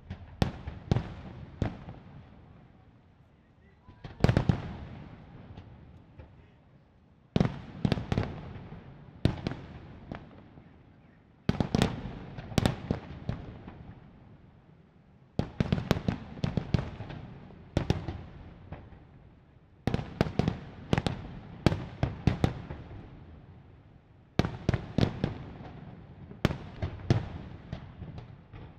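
Aerial fireworks shells bursting in salvos: seven clusters of sharp bangs come about every four seconds, each trailing off in a fading rumble.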